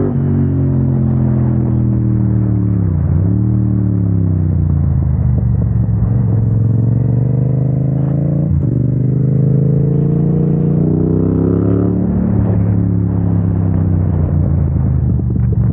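Yamaha MT-07's parallel-twin engine running under way. The revs fall and climb again about three seconds in, the note breaks sharply at about eight and a half seconds, and otherwise the pitch rises steadily as the bike accelerates.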